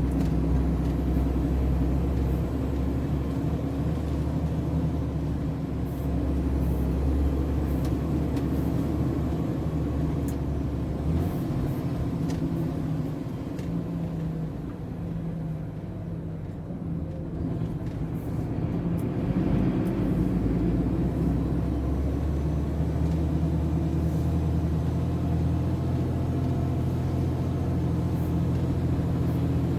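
MAN TGS 33.480 truck's inline-six diesel engine running steadily at low speed. Its note drops about a third of the way through, eases off for several seconds, then picks up again past the middle.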